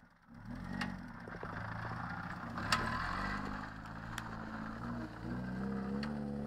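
First-generation Fiat Panda 4x4's engine driving the car off-road, its note rising in the last second or so as it pulls up a steep bank. A few sharp knocks sound over it, the loudest about three seconds in.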